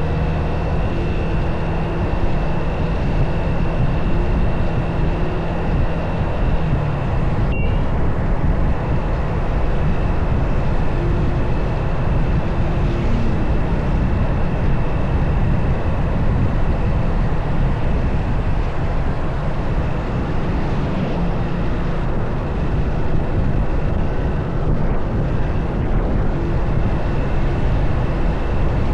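Motorcycle engine running while riding, with wind rushing over the microphone, the engine's pitch shifting a little as the speed changes. A faint steady high whine sits over it, and the sound drops out for an instant about eight seconds in.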